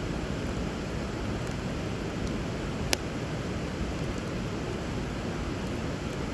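Steady rush of river water flowing, with a wood bonfire crackling in faint ticks and one sharp pop about three seconds in.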